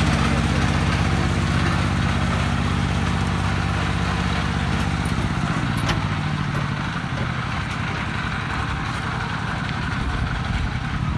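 A vehicle engine running steadily with a low, even throb that eases off about halfway through.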